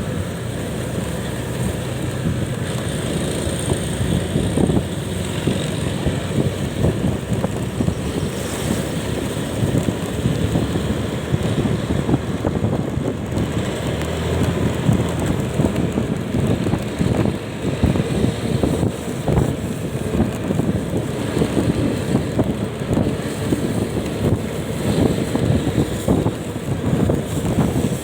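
Wind buffeting the microphone over the steady running noise of a moving vehicle on the road, with a constant rushing hiss throughout.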